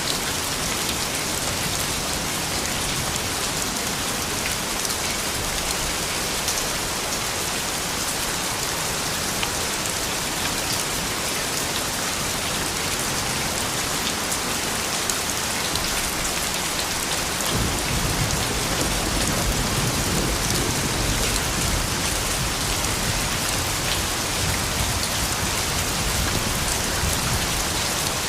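Soft rain falling steadily, with scattered drop ticks. About two-thirds of the way through a low rumble comes in and lasts until near the end.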